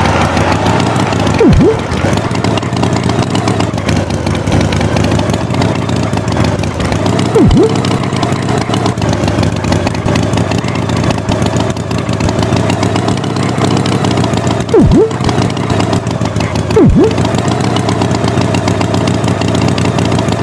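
Engine running steadily, with four brief, loud swooping sounds that plunge sharply in pitch and come straight back up.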